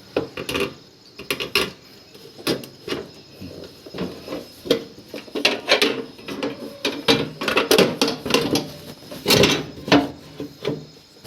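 Irregular metallic clinks and knocks of hand tools and parts being worked on a tractor gearbox, a few sharp knocks at a time with short gaps between.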